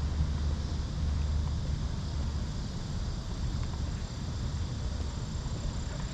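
Outdoor city-park ambience: an uneven low rumble, with a faint steady high-pitched tone above it.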